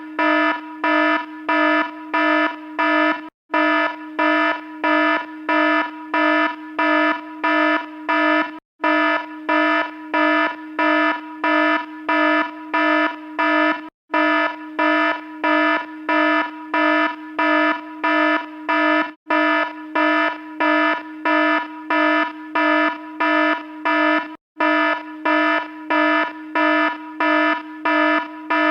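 Electronic alarm beeping rapidly on one steady buzzy pitch, about two beeps a second, with a short break roughly every five seconds.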